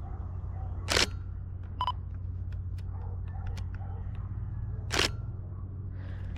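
Single-lens reflex camera shutter firing twice, about four seconds apart, with a short beep between the two shots, over a steady low hum.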